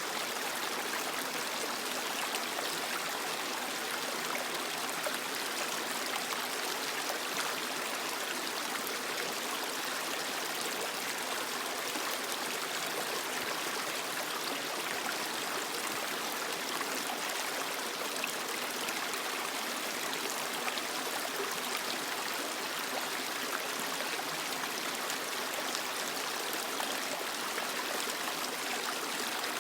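Creek water flowing and splashing over rocks: a steady, even rush with small trickles and splashes, strongest in the higher tones.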